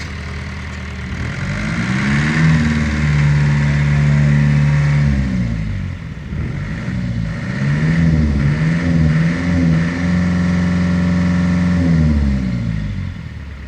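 Fire-damaged tractor's engine revved up twice, each time held at high revs for a few seconds before dropping back down.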